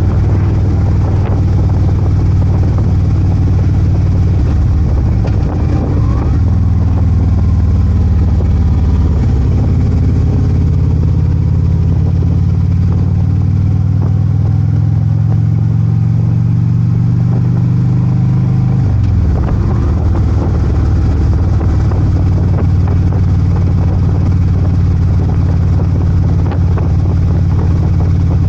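Harley-Davidson Ultra Limited motorcycle engine running on the road. Its pitch climbs steadily for about ten seconds as it accelerates, drops suddenly about two-thirds of the way through, then holds steady.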